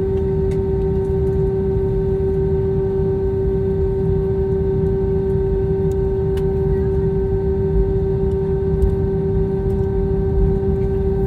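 Airliner cabin noise on the ground: a steady low rumble with a strong, unchanging whine from the aircraft's engines and air systems.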